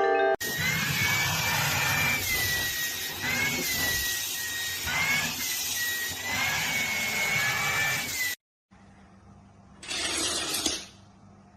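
A motor running with a steady rush and a high whine that wavers a little in pitch, cutting off suddenly about eight seconds in; a second short burst of hiss follows about two seconds later.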